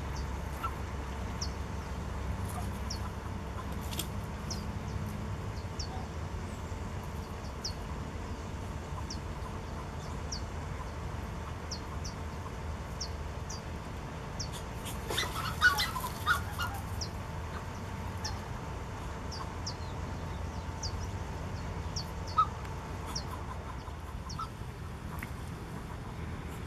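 Bird calls over a steady low rumble: faint short high chirps about once a second, and a brief louder cluster of calls a little past halfway.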